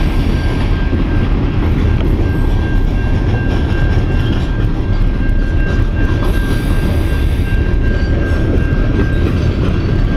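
Long freight train rolling past at close range, its wagons rumbling and clattering steadily over the rails, with a thin high ringing tone from the level crossing alarm running underneath.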